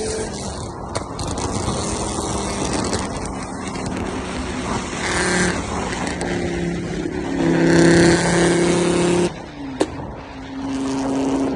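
Volkswagen 2.3 VR5 five-cylinder engine with a straight-piped exhaust, revving up and down in several pulls. The loudest pull is around 8 s; the revs drop off suddenly just after 9 s, a sharp crack follows about a second later, and a shorter rev comes near the end.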